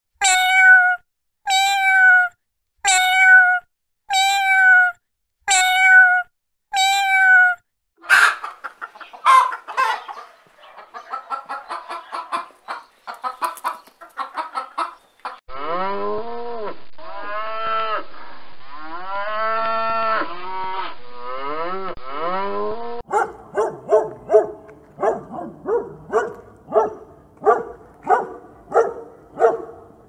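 A kitten meowing six times in a row, evenly spaced. A busy stretch of short, quick animal calls follows. Then a calf bawls, several deeper calls that rise and fall in pitch, and a fast run of short repeated calls ends the stretch.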